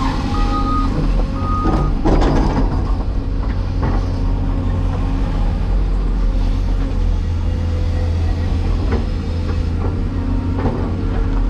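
Cat 336E excavator's diesel engine running steadily, with a back-up alarm beeping about three times in the first two seconds. Clanks sound around two seconds in and again near the end.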